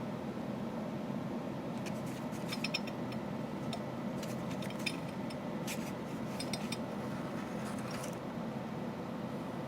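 Light metallic clinks and clicks, scattered from about two seconds in to about eight seconds in, from small metal parts and tools being handled on a ceiling fan motor's housing, over a steady hiss.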